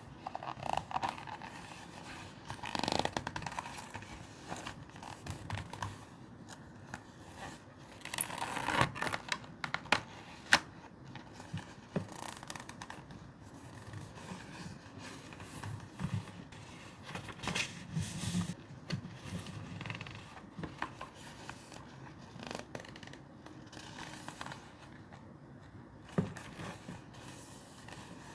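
Close-miked paper and packaging being handled: rustling, scraping and sliding, with scattered sharp clicks and taps.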